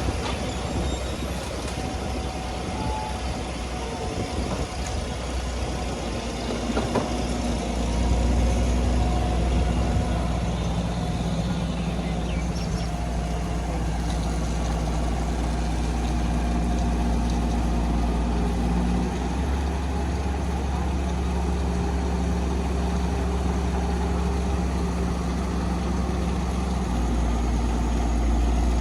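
Heavy diesel engine of construction machinery running steadily, its engine note shifting in steps as it is worked. It gets louder about eight seconds in.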